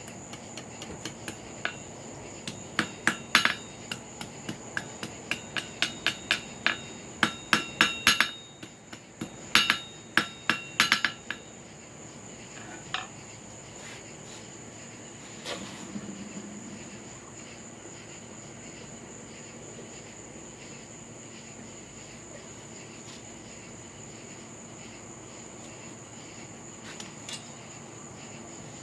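Hand hammer striking a cut flooring nail on an anvil to forge it into a hook: a quick run of ringing blows for about the first eleven seconds, then only a few scattered knocks. Crickets chirp steadily throughout.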